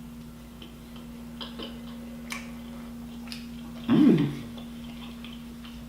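Mouth sounds of eating a raspberry-filled doughnut: faint wet chewing clicks and smacks, with a short hummed "mm" about four seconds in, over a steady low hum.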